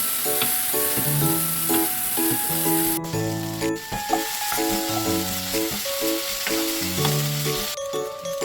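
Food sizzling as it fries in a pan, loudest for the first three seconds, then softer, and fading out near the end. Light background music plays over it.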